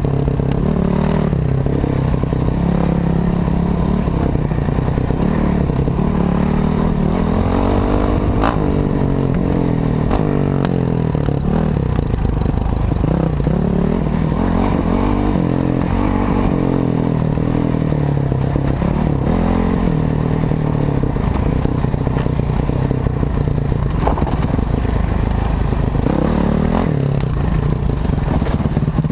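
Enduro dirt bike's engine running under changing throttle while riding a rough trail, its pitch rising and falling again and again, with scattered knocks.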